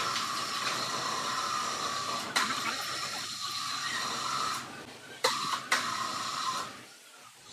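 Steady hissing workshop machine noise with a humming tone in it, broken by sharp clicks about two and a half seconds in and twice around five seconds in; it dies down near the end.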